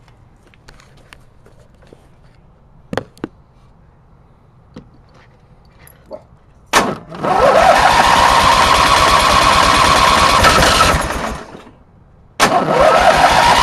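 Riding mower engine started on full choke: it catches with a rising note and runs for about four seconds, then dies away as it stalls, and is started again and runs near the end. The owner puts the stalling down most likely to carburettor problems. A few light clicks come before the first start.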